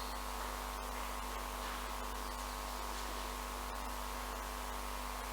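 Steady electrical mains hum with a faint hiss from the microphone and sound system, unchanging throughout.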